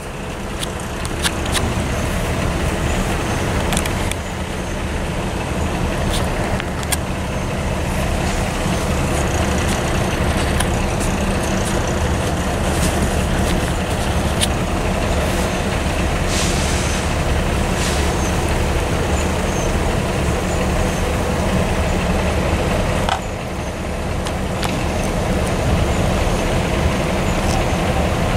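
Freight train of tank cars rolling through a road crossing: a steady low rumble. A few sharp knocks and bumps from the camera being handled sit over it.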